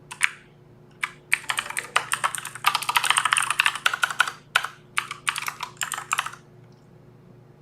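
Typing on a Filco Majestouch mechanical keyboard: several bursts of rapid clicking keystrokes that stop about six seconds in.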